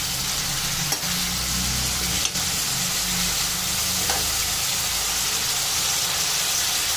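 Tomatoes, shallots and curry leaves sizzling steadily in sesame oil in a metal kadai as they soften, stirred with a steel ladle that clinks lightly against the pan a few times.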